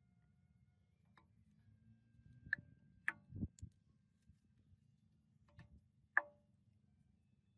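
Metal tools and parts being handled: about six light metallic clicks and clinks, a few with a short ring, and one duller thump about halfway through.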